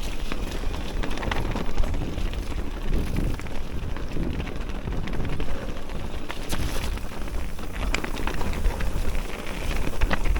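Whyte electric mountain bike's tyres splashing through water and crunching over wet, rough ground, with wind buffeting the microphone.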